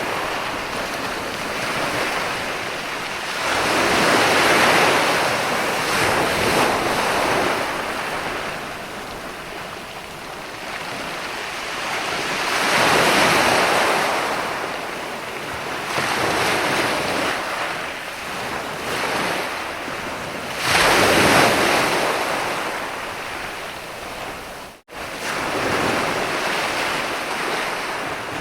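Sea waves washing onto a beach: slow surges of surf that build and fall away every several seconds, the largest about three quarters of the way through. The sound cuts out for an instant shortly after that.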